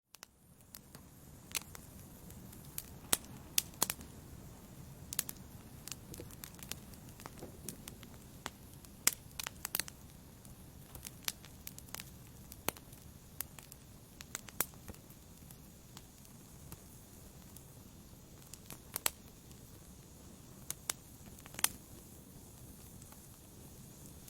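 Wood fire burning in a fireplace: a low steady rumble with sharp, irregular crackles and pops.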